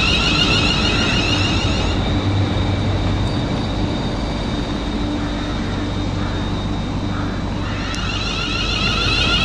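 London Midland Class 350 Desiro electric multiple unit passing at speed: a steady rush of wheels and air with a rhythmic high hiss. The sound eases to a lower hum once the last coach has gone by, about four seconds in. Near the end there is a click, and the running noise of another train starts.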